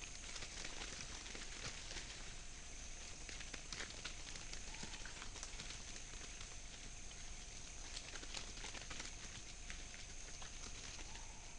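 Rainforest ambience: a steady high insect drone with many light, scattered crackles and ticks, like rustling in leaf litter or drops falling on leaves.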